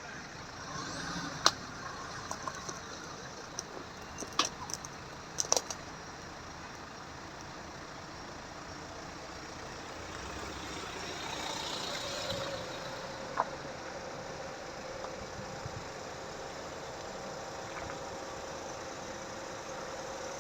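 A motor vehicle running steadily, with several sharp clicks in the first few seconds and one more about halfway through.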